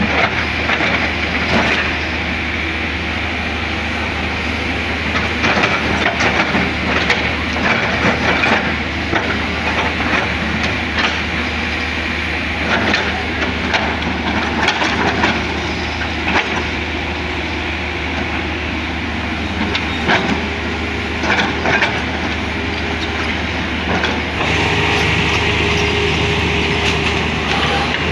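Hydraulic excavator working: its diesel engine runs with a steady low drone while irregular metallic clanks and knocks come from the machine as it digs. Near the end the engine gets louder and steadier.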